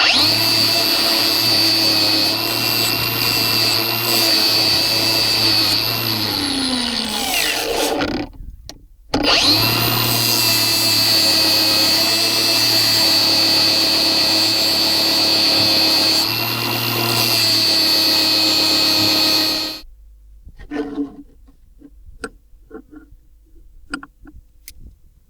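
Hand-held electric power tool running at a steady high whine. It winds down with falling pitch about seven seconds in, starts again a second later, runs steadily, and stops about twenty seconds in, leaving a few faint clicks.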